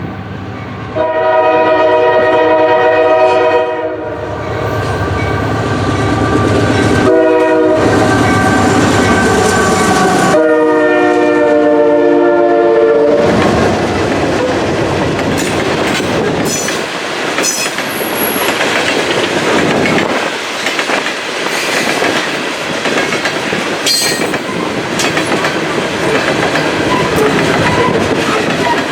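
Norfolk Southern GE AC44C6M diesel locomotive's air horn sounding a long blast, a short blast and another long blast, with the diesel's rumble between them. The locomotive and loaded coal cars then pass close by with steady wheel-and-rail noise and clickety-clack.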